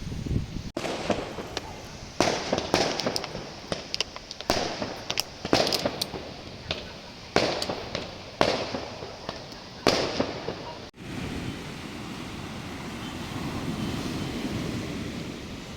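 A string of sharp bangs and crackles, one or two a second, each dying away quickly, lasting about ten seconds before stopping abruptly. After that comes a steady rushing noise.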